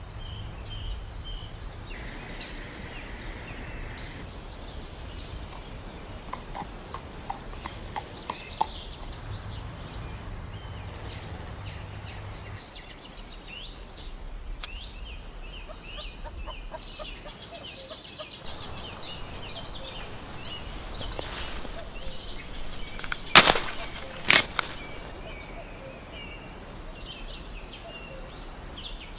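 Birds chirping over a steady outdoor background, with two sharp, loud knocks about a second apart roughly three-quarters of the way through.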